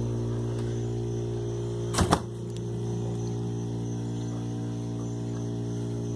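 A steady low electrical hum, with one short knock about two seconds in.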